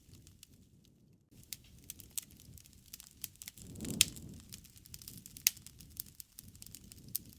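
Wood fire crackling with scattered sharp pops over a low rumble of burning. It goes briefly quiet near the start, and the loudest pop comes about four seconds in.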